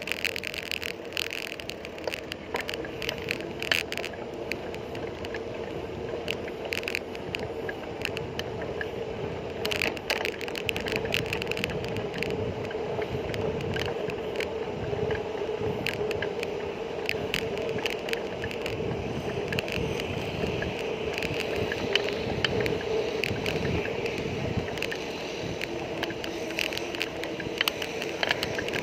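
Bicycle being ridden on a road: a steady hum and road rumble with many scattered clicks and rattles.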